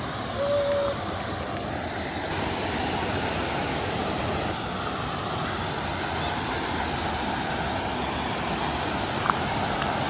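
Waterfall rushing: a steady, even roar of falling water. A brief single tone sounds about half a second in.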